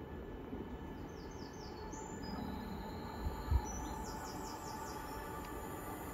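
A small songbird singing short trills of quick rising notes, twice, over a steady low rumble, with one brief low thump about three and a half seconds in.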